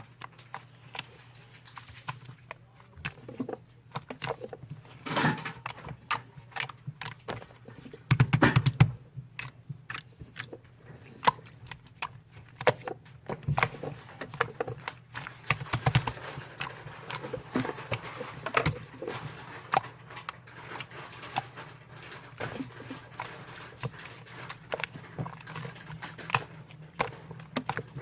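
Slime being squished, stretched and poked by hand, making irregular sticky clicks and small pops, with a louder squelching cluster about a third of the way in.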